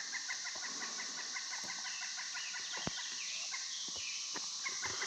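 Outdoor wildlife chorus: a steady high insect buzz, with a run of short calls repeated several times a second.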